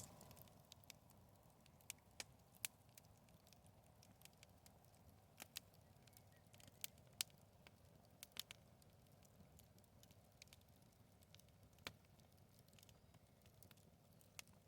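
Wood bonfire crackling: scattered sharp pops and snaps at irregular intervals, roughly one a second, over a faint low rush of the flames.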